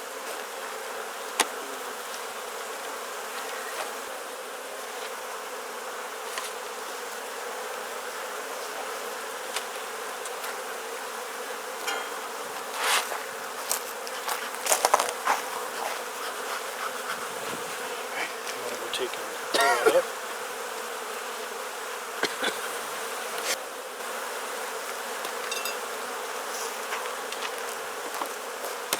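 Honeybee colony buzzing steadily from an open Langstroth hive, swelling louder a few times as single bees fly close past with a bending pitch. A few short sharp clicks or knocks now and then.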